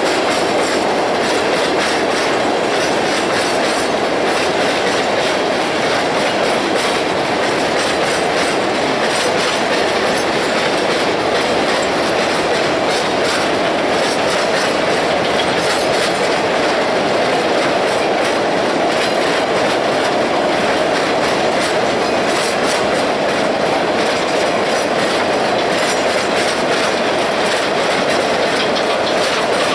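Ore train cars rolling past at a steady speed, their steel wheels clicking over the rail joints in a continuous run.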